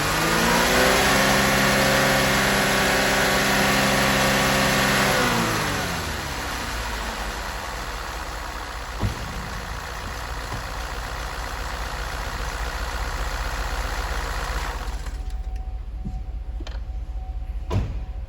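Engine held at high revs, then throttled back so the revs fall away about five seconds in; it runs on at low speed, more quietly, with two sharp knocks later on.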